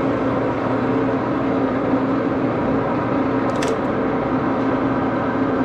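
Axelson lathe running steadily with an even hum, and one short high click about three and a half seconds in.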